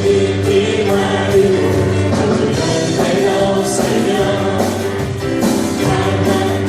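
Praise team singing a worship song as a group, with band accompaniment.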